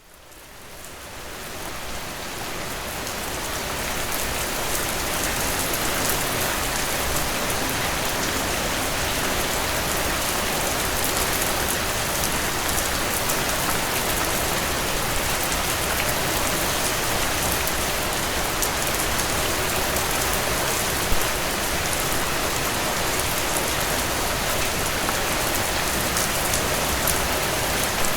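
Steady rainfall: a dense hiss flecked with the patter of individual drops, fading in over the first few seconds and then holding even.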